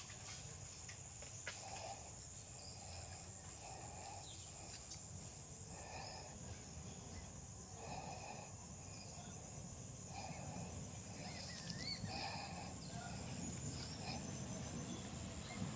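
Faint rural outdoor ambience: soft animal calls every second or two, brief bird chirps, and a steady high insect hiss.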